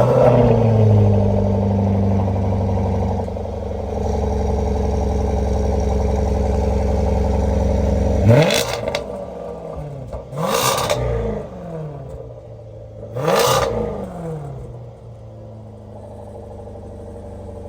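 Jaguar XE SV Project 8's 5-litre supercharged V8 catching with a start-up flare and settling into a steady fast idle. It is then revved three times, a couple of seconds apart, each rev rising sharply and falling back, before dropping to a lower idle.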